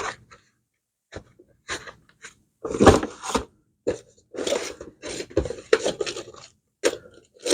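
Irregular short clatters and scrapes of parts and tools being handled on a workbench, in bursts with short gaps between.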